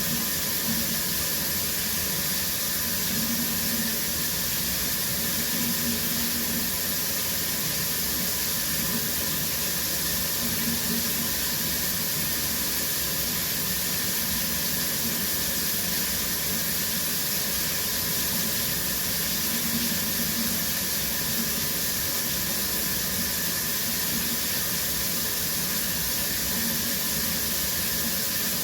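Shower water running steadily, a constant hiss of spray and falling water.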